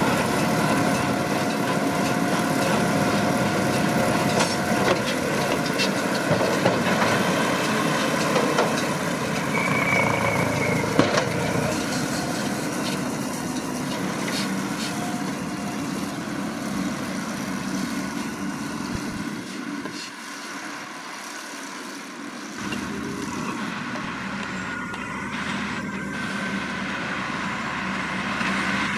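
Massey Ferguson 7620 tractor running steadily while pulling a McHale V660 round baler through hay, with scattered knocks from the working machinery. The sound drops quieter for a couple of seconds about two-thirds of the way through, then comes back.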